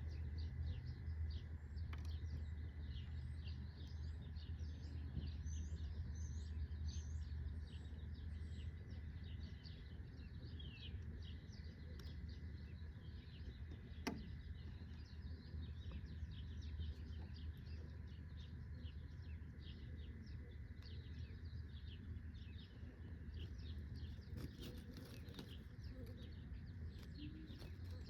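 Small birds chirping and twittering in many quick short calls, with a few brief falling whistles, over a low steady rumble; a single sharp click about halfway through.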